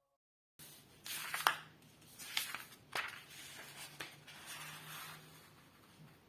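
Sheet of paper being handled and folded by hand: soft rustling with several sharp crinkles and creasing snaps, starting just over half a second in.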